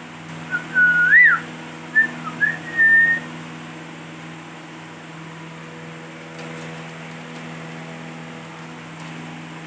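Ringneck parrot whistling: a few short clear whistles over about three seconds, one sliding up and dropping back down, then the whistling stops. A steady low hum runs underneath.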